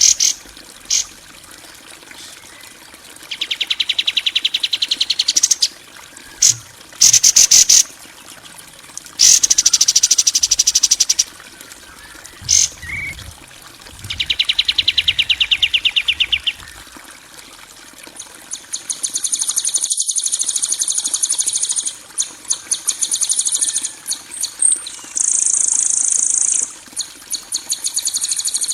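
Bird-training 'masteran' recording of harsh songbird and insect-like calls: rapid rasping trills a couple of seconds long alternate with short sharp chirps, and from about 18 s on a higher, steadier rattling trill runs with quick chirps over it.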